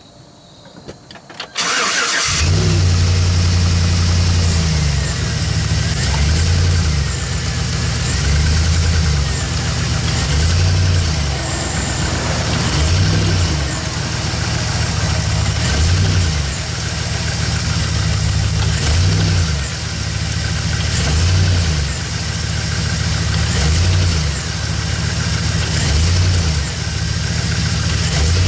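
2011 GMC Sierra 1500's engine started about two seconds in, then revved briefly again and again, roughly every two seconds, to show the engine rocking on a worn-out motor mount.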